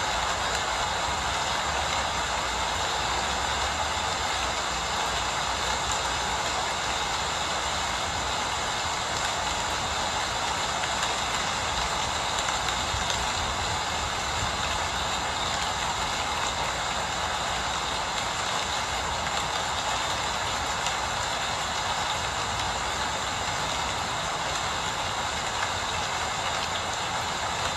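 Steady rain falling, an even hiss with no breaks or separate loud drops.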